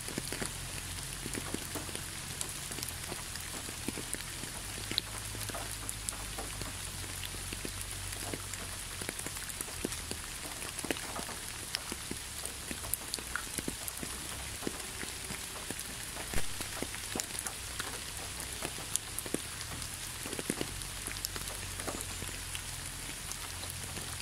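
Rain falling on leaves: a steady hiss with many separate drops ticking close by, one of them louder about two-thirds of the way through.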